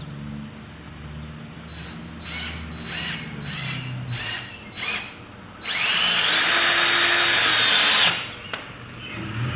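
Power drill driving a screw into wood: a few short trigger bursts, then one long run of about two and a half seconds that climbs in pitch and holds before stopping.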